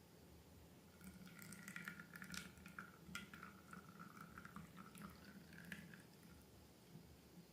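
Faint wet squishing and small clicks of slime being worked, with a thin squeak running through it, for a few seconds before it fades back to near silence.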